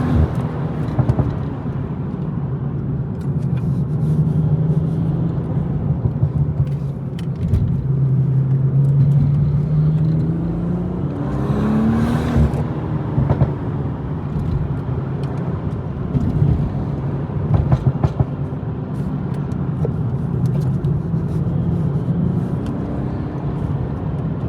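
BMW M240i's turbocharged straight-six running under way, its note slowly climbing and easing off as the car is driven. About halfway there is a brief rise in revs with a short burst of wider noise.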